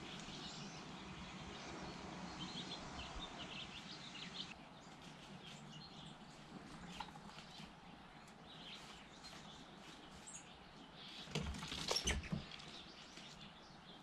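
Small birds chirping now and then over steady outdoor background noise. About eleven seconds in comes a brief cluster of loud knocks and scrapes.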